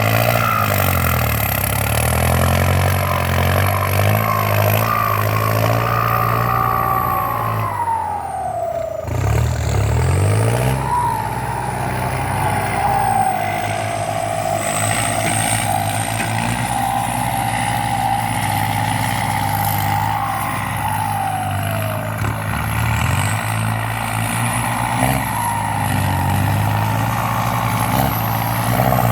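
Kubota M8808 tractor's turbo-diesel engine working hard under load as it pulls a disc plough full of soil, with the turbocharger's whistle rising and falling over the engine note. About eight seconds in the engine and whistle pitch drop briefly, then climb back up.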